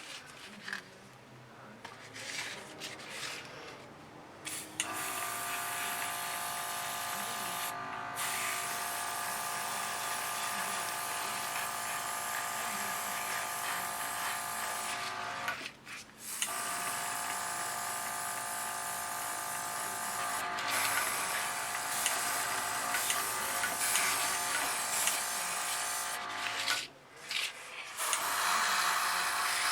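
A small electric motor buzzing steadily in three long runs, each stopping briefly, after a few light clicks at the start.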